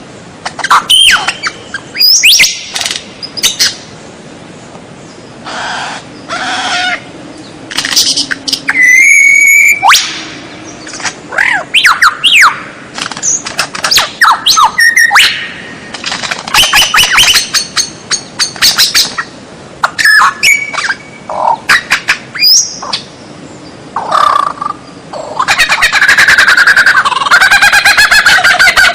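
White-rumped shama (murai batu) singing a varied song: short, loud phrases of whistles, slides and harsh notes with brief pauses between them, then a long rapid run of notes near the end.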